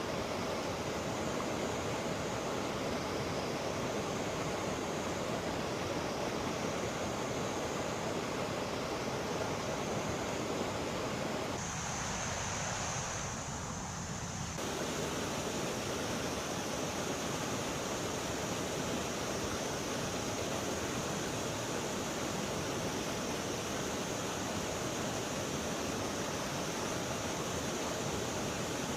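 River water rushing steadily, briefly dipping in the middle range about twelve seconds in.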